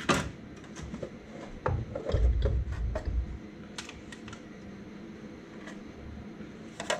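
Scattered light metallic clicks and a few dull knocks of hand tools and parts being handled during the strip-down of an Audi 2.6 V6 engine, busiest in the first half.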